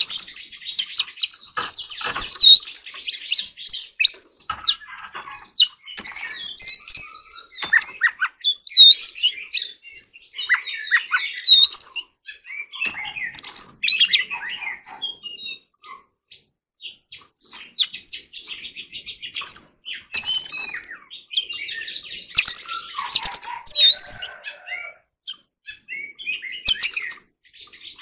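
Oriental magpie-robin singing a long, varied song of whistles, quick trills and rapid note runs, in bursts separated by short pauses.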